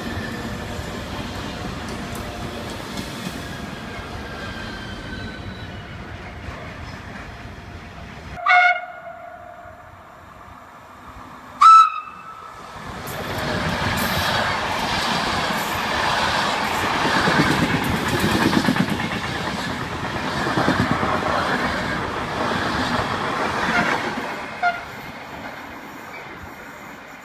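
Trains running through a station: an Italo high-speed train running out, then two short train-horn blasts about three seconds apart, the second louder. Then a Trenitalia Intercity train passes close by, a loud steady rumble with wheels clicking over the rail joints, fading near the end.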